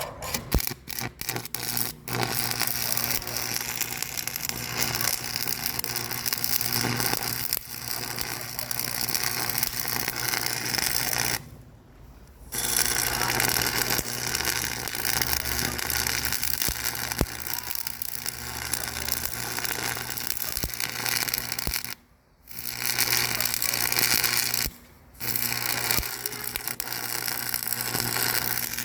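A machine running with a dense, rattling mechanical clatter and a steady hum, with a few sharp clicks in the first couple of seconds. It cuts out briefly three times: for about a second near the middle, then twice more near the end.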